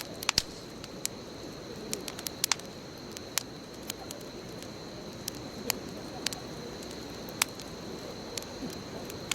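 Wood bonfire burning: irregular sharp crackles and pops, one to three a second, over the steady low rustle of the flames, with a steady high-pitched tone in the background.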